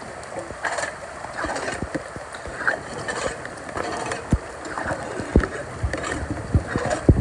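Floodwater sloshing and splashing, with a series of short low thumps, more of them in the second half.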